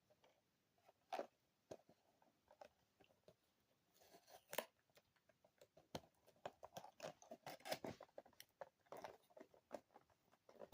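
Small cardboard toy box being handled and opened by hand: scattered crinkles and clicks, sparse at first and busier from about halfway through as the flaps are worked open.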